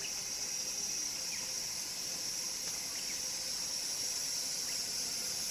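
Steady high-pitched insect chorus, with a few faint short bird chirps over it.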